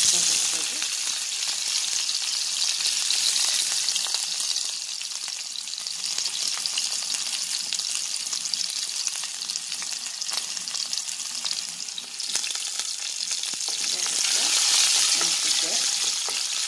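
Chopped ginger and garlic dropped into hot oil with cumin seeds in a wok: a sudden loud sizzle that goes on steadily as it is stirred, with small clicks and scrapes of stirring, swelling again near the end.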